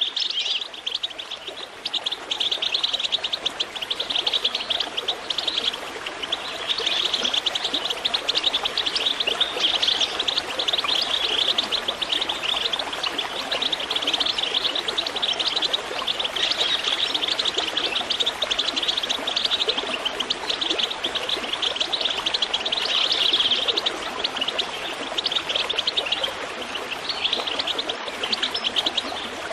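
Birds chirping continuously, many short calls overlapping in a dense chorus.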